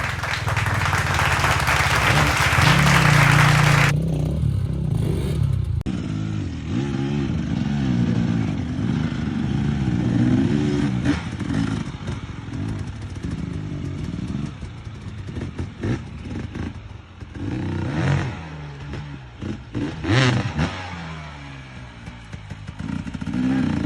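Dirt bike engine revving up and down as it rides a trail, with a rush of wind noise over the engine in the first few seconds and a few sharp knocks later on.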